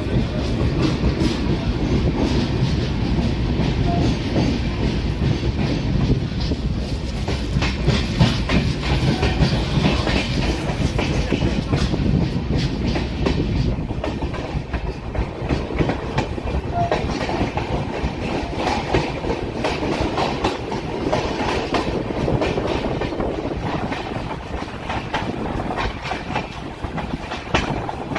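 Passenger express train running, its wheels clattering over the rails as a steady rumble shot through with many sharp clicks.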